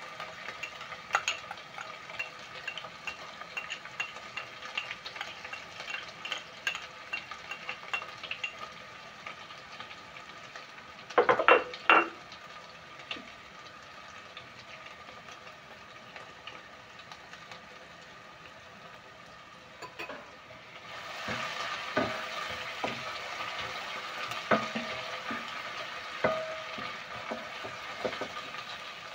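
Onions with freshly added garlic and ginger frying and sizzling in a cooking pot, stirred with a spoon that clicks against the pot. There are a few loud knocks about eleven seconds in, and the sizzling grows louder about twenty-one seconds in.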